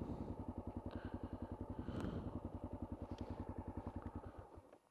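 Honda XR650L's single-cylinder four-stroke engine idling with an even, steady beat of about ten pulses a second, then switched off near the end and winding down to silence.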